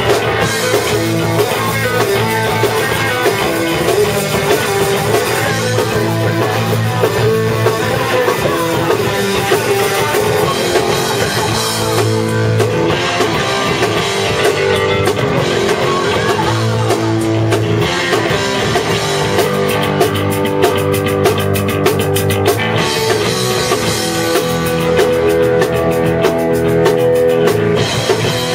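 A rock band playing live at rehearsal: electric guitar and drum kit going through a song at a loud, steady level.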